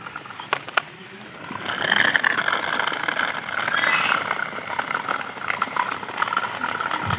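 Two clicks, then a small DC motor and its plastic gears start up and run with a rough, buzzing whir, getting louder from about a second and a half in.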